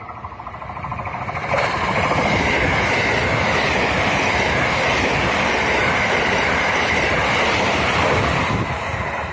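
A JR West 683 series electric multiple unit, a limited express train, passing along the platform. The rumble of its wheels on the rails builds over the first second and a half, jumps to a loud, steady rush as the cars go by, and eases off near the end.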